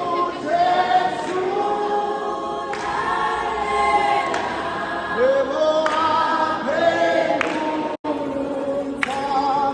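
A choir singing a cappella in a gospel style, holding long voiced notes in several parts. The sound cuts out for an instant about eight seconds in.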